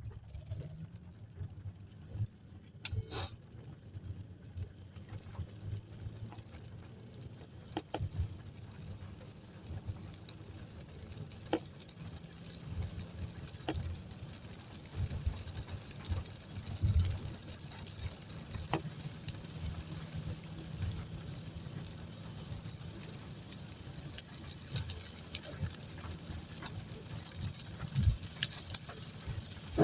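Steady low rumble of a car's engine and road noise heard from inside the cabin while driving, with scattered short clicks and knocks.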